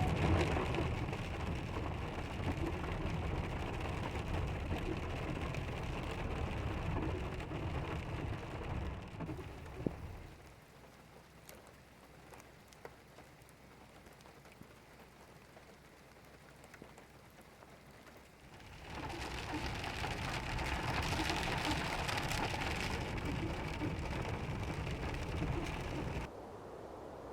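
Heavy rain falling steadily. It drops to softer rain about ten seconds in, comes back heavy a little before twenty seconds, and cuts off suddenly near the end.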